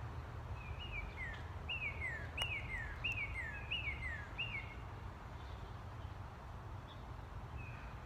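A small bird chirping: about a dozen short, high chirps that each slide downward, repeated quickly for about four seconds and then stopping, over a steady low background rumble.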